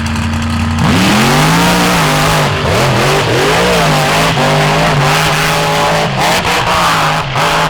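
An off-road vehicle's engine, steady for a moment and then revved hard about a second in, its pitch rising and dipping over and over under a loud rushing noise.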